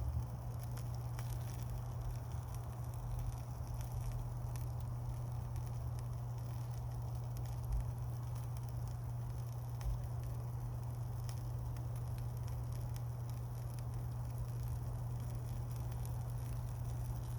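Wood campfire burning, with scattered sharp crackles and pops and a couple of slightly louder snaps, over a steady low hum.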